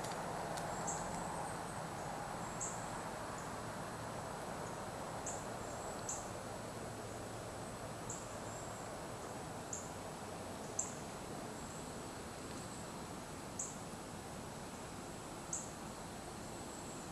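Short, high chip notes from a small bird, about a dozen at uneven intervals of one to two seconds, over a steady outdoor hiss.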